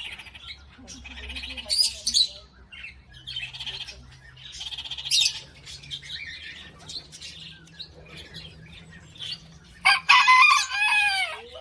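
Parrot calling: scattered short squawks and chirps, then a louder, longer call with a rising-and-falling pitch about ten seconds in.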